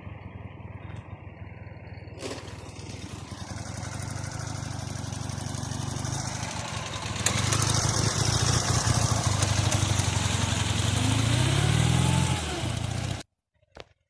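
Ural motorcycle's flat-twin engine running, getting louder and stepping up sharply about halfway through as it pulls away, with the pitch rising and falling near the end before the sound cuts off abruptly.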